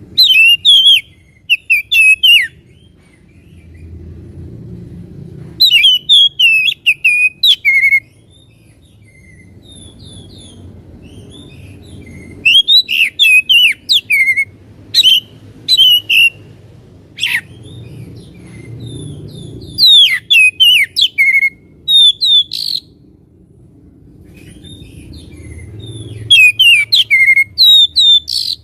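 Oriental magpie-robin (kacer) singing in loud bouts of rapid whistled and chattering phrases, about six bouts with pauses of a few seconds between them, over a low background rumble.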